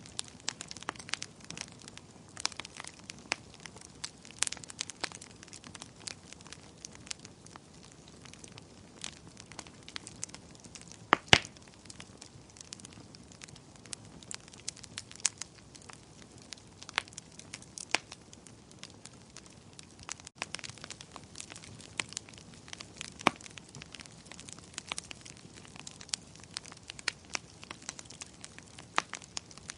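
Wood fire crackling: irregular sharp pops and snaps over a low steady hiss, with a louder double pop about eleven seconds in.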